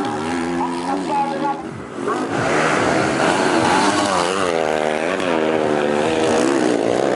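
Dirt-bike engines racing on a grasstrack circuit, the revs rising and dropping with throttle and gear changes, getting louder about two seconds in.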